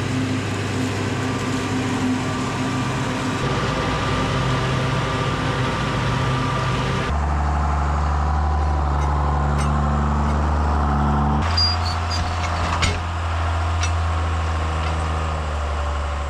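Heavy farm machinery engines running steadily. The sound changes abruptly about seven and about eleven seconds in, as if cut between different machines, with a few sharp clicks shortly after the second change.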